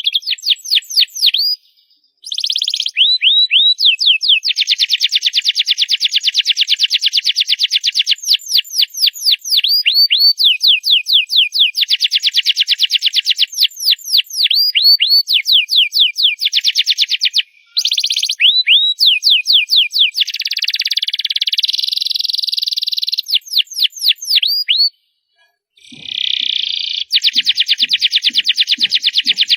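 Domestic canary singing loudly in long, high-pitched rolls of rapid repeated notes and trills, broken by brief pauses about 2 seconds in, about 17 seconds in and near 25 seconds.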